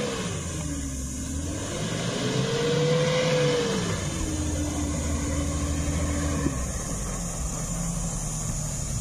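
Toyota Fortuner SUV's engine driving through loose sand: the pitch dips, climbs to a peak about three seconds in, then drops and holds lower as the vehicle eases along.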